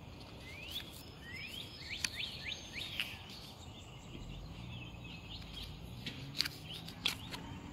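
Songbirds chirping: a run of short, quickly rising chirps, with a few sharp clicks standing out above them.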